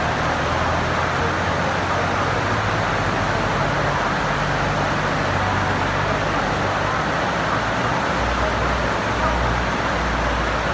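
Heavy monsoon-storm rain pouring steadily, with a low hum of vehicle engines under it that grows a little stronger near the end.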